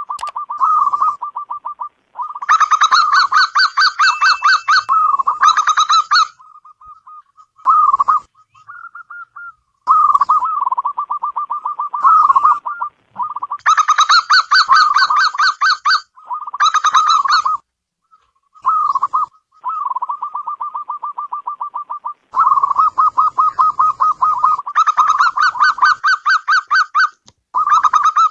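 Zebra dove (perkutut) cooing: phrases of rapid, staccato coos repeated again and again with short gaps between them, several phrases louder and brighter than the rest.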